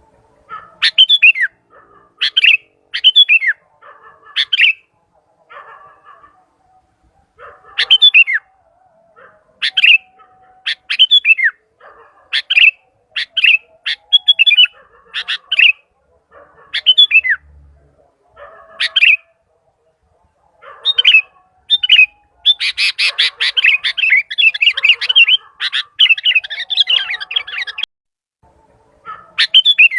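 Sooty-headed bulbul (kutilang) calling loudly and persistently: short whistled phrases repeated about every one to two seconds, with several seconds of rapid, dense chattering past the middle.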